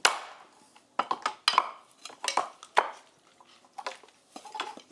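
Irregular metallic clanks and clinks of hand tools knocking against the rusted, seized steering parts of an old David Brown tractor, about six sharp strikes with a short ring, the loudest at the very start.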